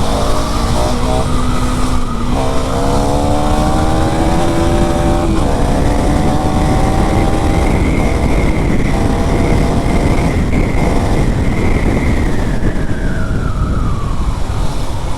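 KTM Duke 390's single-cylinder engine accelerating hard through the gears, the revs climbing and dropping at shifts about two and five seconds in, then holding high and easing off near the end, over heavy wind rush.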